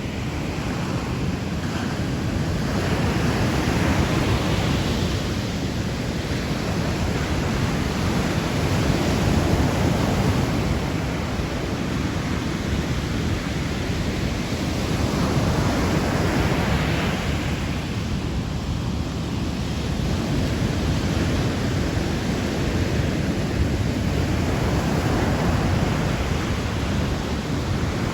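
Sea waves breaking and washing ashore, swelling and fading every several seconds over a steady low rumble.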